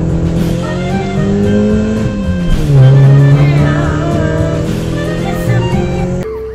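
Car engine sound revving, its pitch climbing, falling back about two seconds in, then climbing again, mixed with music. It cuts off suddenly near the end.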